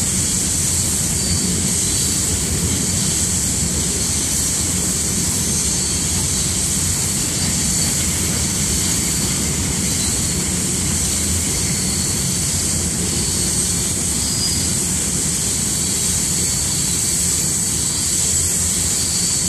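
CSX freight train cars rolling past on the rails: a steady rumble with a constant high hiss.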